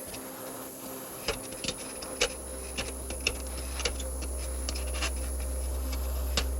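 Irregular light clicks and taps, about a dozen, over a faint steady tone, with a low steady hum coming in about two seconds in.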